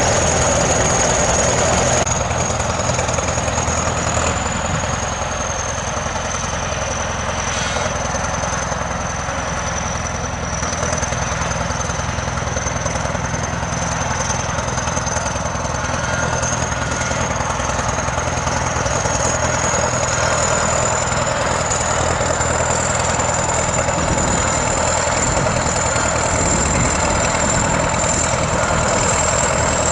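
ChTZ T-170 bulldozer's diesel engine running steadily, with a thin high whine above it whose pitch sags slowly and then climbs back.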